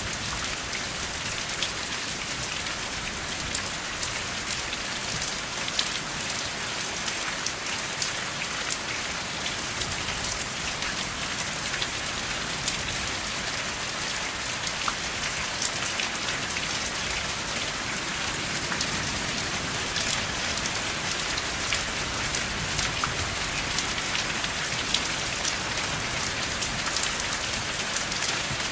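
Steady rain, an even hiss with many close, separate drops ticking through it, without thunder.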